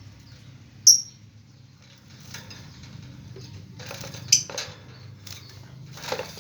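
A small bird giving one short, sharp high chirp about a second in, followed by scattered light rustling and clicking, with another brief sharp sound a little past four seconds.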